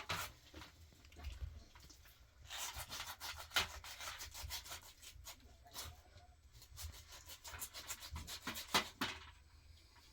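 Rough scraping strokes in quick bursts of several, with short pauses between the bursts.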